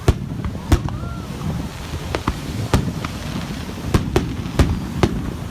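Aerial fireworks bursting: a run of about eight sharp bangs at irregular intervals, some close together.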